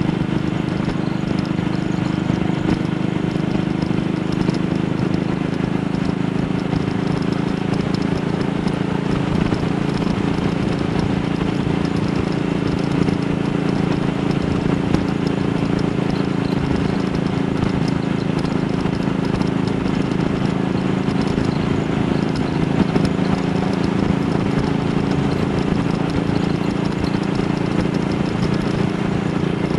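AJS Model 8 single-cylinder four-stroke motorcycle engine running steadily on the road, its pitch holding even.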